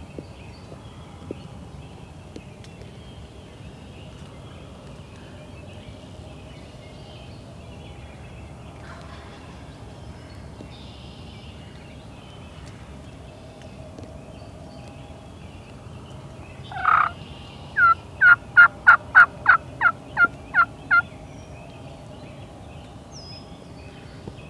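Quiet outdoor background, then a single loud turkey call about two-thirds of the way in. It is followed by a run of about ten short, evenly spaced yelps over some three seconds, each dropping in pitch.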